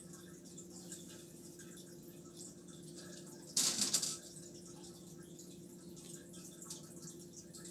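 Faint soft pops of a small silicone pop-it fidget being pressed, over a steady low hum. About three and a half seconds in there is one brief, louder rustle.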